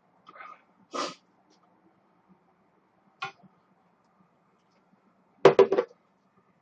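Person eating ramen: a few separate short clicks and knocks, then a loud quick run of four or five eating sounds about five and a half seconds in.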